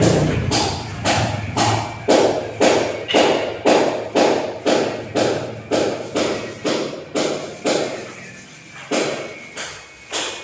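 Repeated hammer blows at a steady pace of about two a second, a long regular run that thins to a few spaced strikes near the end.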